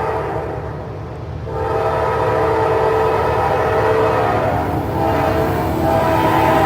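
Locomotive air horn sounding long blasts: a break about half a second in, a long blast, a brief dip about five seconds in, then another long blast. Under it is the steady low rumble of the train.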